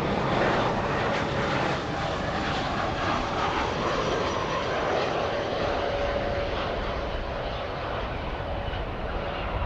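Jet aircraft engines running loud and steady, a dense rushing noise with a faint high whine, easing off slightly over the last few seconds.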